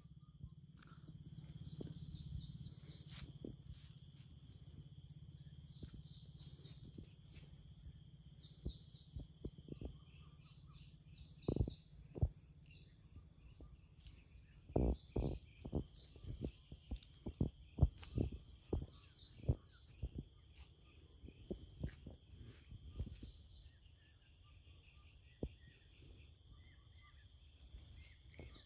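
A bird repeating a short high call every few seconds over a faint steady high whine, with irregular low thuds on the microphone, most of them and the loudest from about eleven seconds in.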